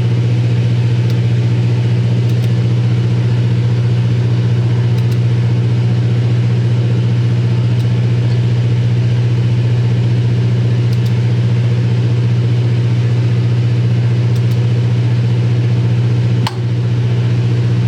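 Steady low machine hum from a running engine or motor, unchanging throughout, with a brief click and a short dip about three-quarters of the way through.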